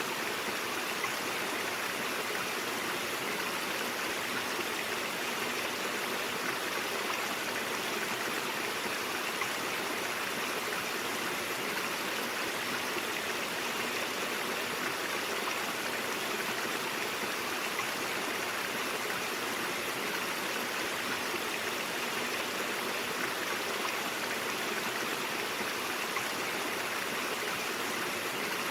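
A mountain stream flowing steadily over rocks: continuous rushing and gurgling water with no breaks.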